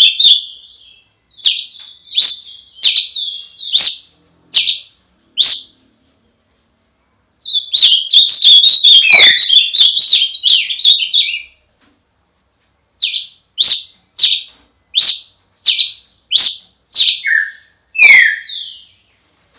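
A songbird singing close by, loud, in phrases of rapid twittering warbles broken up by series of separate short chirps, with brief pauses of a second or so between phrases.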